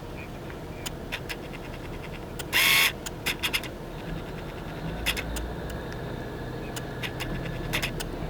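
Low, steady rumble of a truck running, heard from inside the cab, with scattered clicks and rattles and one loud half-second noise about two and a half seconds in.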